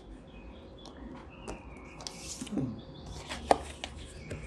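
A few sharp taps and clicks, the loudest about three and a half seconds in, with birds chirping in the background.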